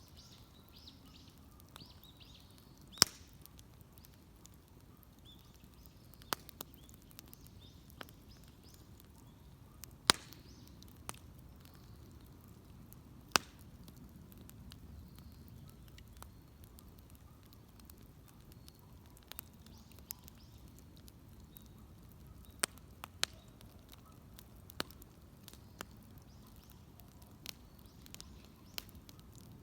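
Wood bonfire crackling, with irregular sharp pops, the loudest about 3, 10 and 13 seconds in.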